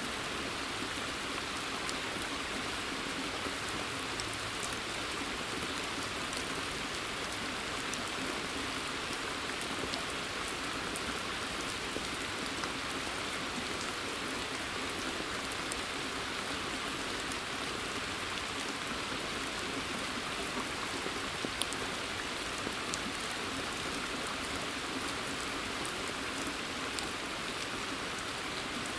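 Steady rain falling in a forest and onto a pond, an even hiss with scattered faint drop ticks.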